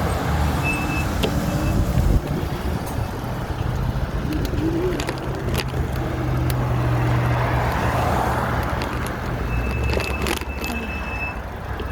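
Riding noise: a steady low hum from a motor with a constant rushing noise over it, strongest through the middle, and a few light clicks.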